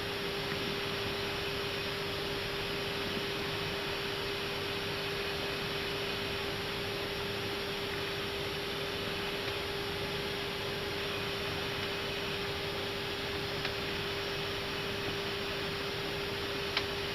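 Airbus A319 cockpit background noise on approach: an even rush of airflow hiss with a constant mid-pitched electrical hum under it, and one faint click near the end.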